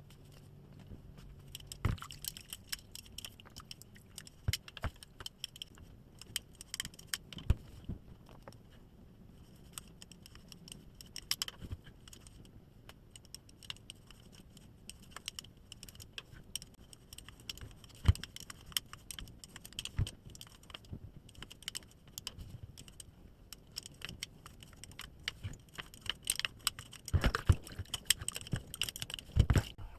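Metal parts of a kitchen range-hood exhaust fan being handled, with scattered light metallic clinks and rattles that grow busier near the end.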